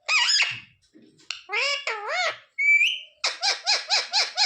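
Ringneck parrot vocalising in a high, squawky voice: a few bending calls, a short rising whistle about two and a half seconds in, then a fast run of short repeated notes, about five a second.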